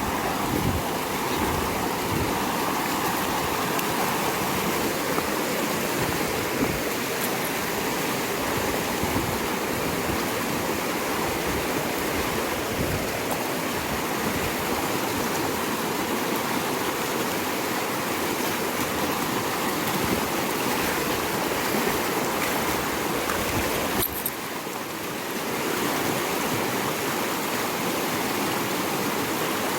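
A river rushing steadily, its water running high after heavy rain. The rush dips briefly about three quarters of the way through, then comes back.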